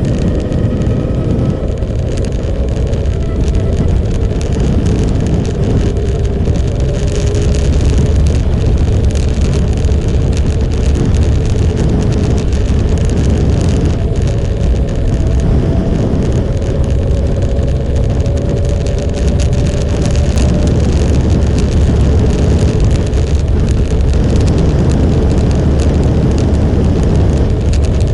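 Motorcycle engine running while under way, its pitch drifting slowly up and down over a heavy, steady low rumble.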